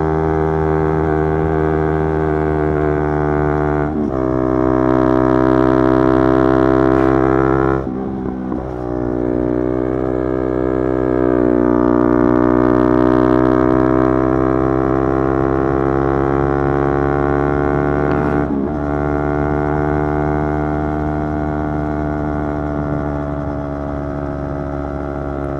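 Yamaha YZF-R3's 321 cc parallel-twin engine running under way at fairly steady revs. The note breaks and changes pitch about 4, 8 and 18 seconds in as it shifts gear, and swells louder under throttle between.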